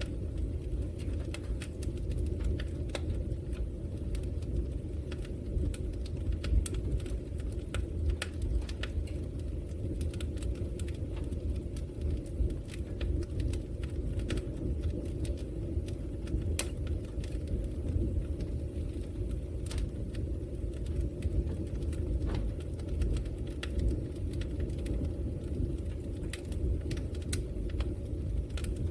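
Wood logs burning in a fireplace: a steady low rumble of the fire with frequent sharp crackles and pops at irregular intervals.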